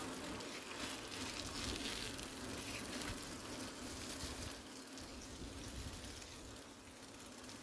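Mountain bike tyres hissing as they roll over a wet, slushy road of partly melted snow; the hiss eases a little toward the end.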